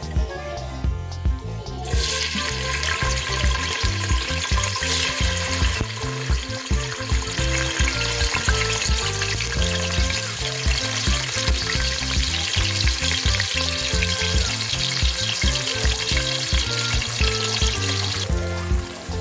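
Sliced onions frying in hot oil in a stainless steel pot, a steady sizzle that starts about two seconds in and stops shortly before the end. Background music plays underneath.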